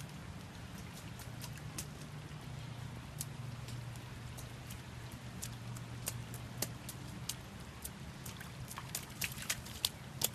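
Steady rain, with single drops ticking sharply close by, coming more often near the end, over a low steady hum.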